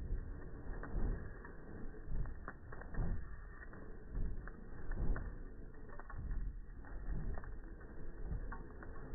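Campfire crackling and popping, slowed down so it sounds deep and dull: scattered sharp snaps over a low rumble that swells about once a second.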